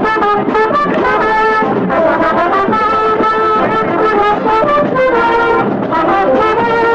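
Music led by brass instruments, playing a melody of notes that change every fraction of a second at a steady loudness.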